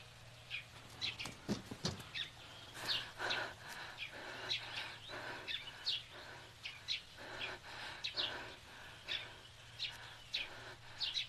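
Small birds chirping over and over in short, high chirps, a few each second. There are two sharp knocks about a second and a half in.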